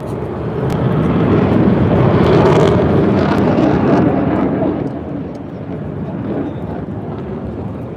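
Aircraft engine noise swelling to a loud peak about two to four seconds in, then fading, as an aircraft passes.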